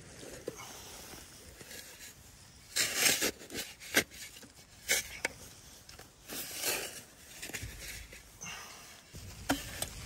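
Packed snow being dug and scraped with a flat blade: a series of short crunching, scraping strokes, the loudest about three and four seconds in.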